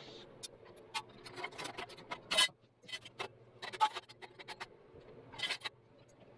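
Irregular light clicks and taps of handled metal parts, a dozen or so, the loudest about two and a half and four seconds in.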